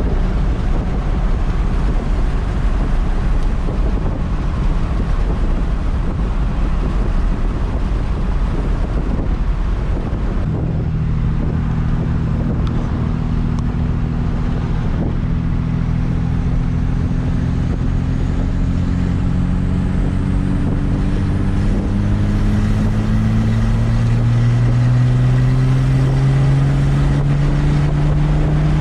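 A motor vehicle under way, with steady road and wind noise. From about a third of the way in, an engine note comes up and climbs slowly in pitch as the vehicle accelerates.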